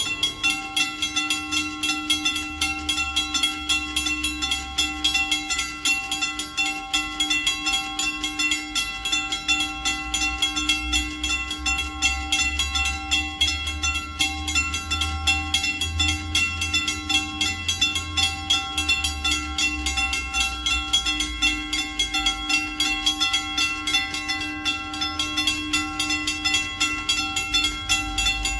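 Railroad crossing bells ringing continuously with rapid, even strokes: a W.C. Hayes bell and a US&S Type 3 teardrop bell. Under them a passing diesel train's low rumble swells and fades.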